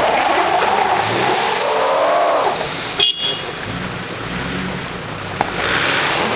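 4x4 engines revving as a stuck 4x4 is pulled out of snow on a tow strap. The engine pitch wavers up and falls away over the first couple of seconds, there is a sharp knock about three seconds in, and then a lower, steadier engine note.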